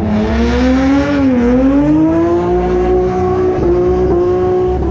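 A drift car's engine held high in the revs. It sags a little about a second in, then climbs again and holds a steady high pitch until it drops off near the end.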